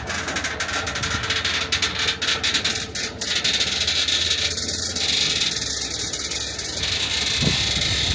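Heavy vehicle engine running steadily under an even rushing noise, with a few sharp clicks in the first second or so.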